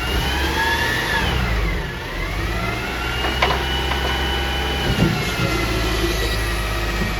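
Mack LR garbage truck's engine revving up and down: its pitch rises, falls, rises again and holds, then sinks. Two short knocks sound about three and a half and five seconds in.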